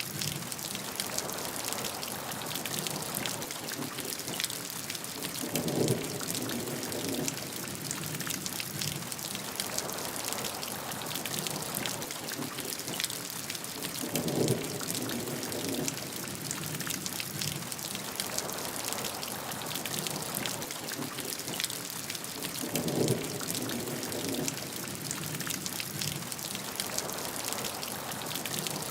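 Steady heavy rain falling, with dense close drop patter. A short low rumble swells up three times, about every eight or nine seconds.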